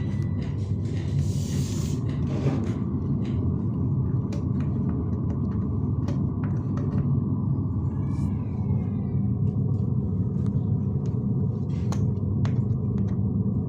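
Home theater subwoofer putting out a steady deep bass rumble with almost nothing above it, a few faint clicks over the top: the bass section works while the speakers give no sound.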